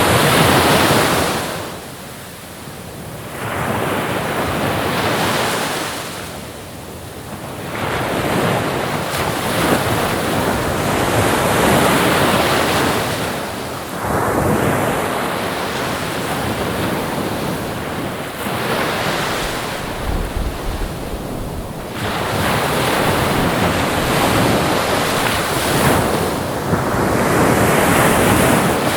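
Ocean waves breaking and washing on a shore, the surf swelling and ebbing every few seconds.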